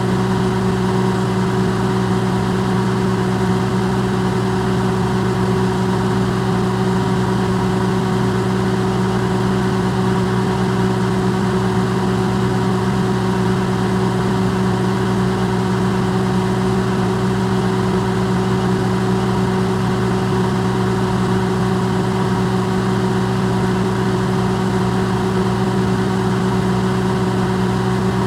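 Electrolux microwave oven running, recorded close up and amplified: a steady, unchanging hum with several low tones over an even hiss.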